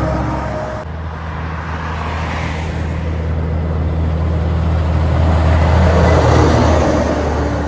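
A heavy truck's diesel engine running as it drives past, its engine and tyre noise growing louder to a peak about six seconds in and then fading. There is an abrupt change in the sound a little under a second in.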